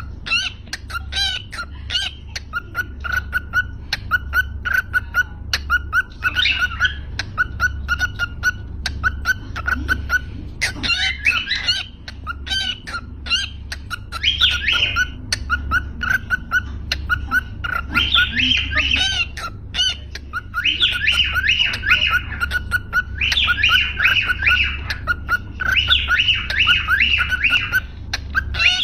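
Small pet parrots chattering: a rapid, almost unbroken stream of high chirps and squawks, with a low steady hum underneath.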